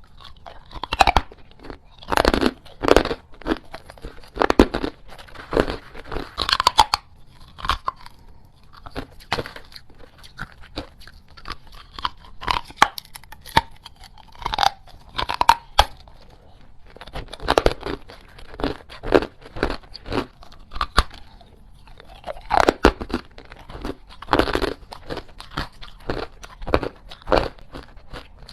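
Close-miked biting and chewing of small, hard ice pieces: irregular crisp crunches and crackles, some in quick runs of several bites, with short pauses between.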